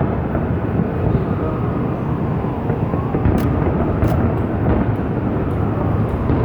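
Continuous low rumble of a large fireworks display's bursts heard together, with sharp crackles about three and four seconds in.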